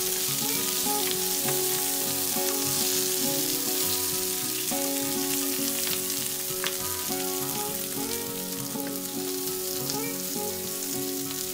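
Chunks of onion, garlic, capsicum, almonds and green chillies sizzling steadily as they fry in ghee in a nonstick pan, stirred with a wooden spatula, with a few light clicks of the spatula against the pan.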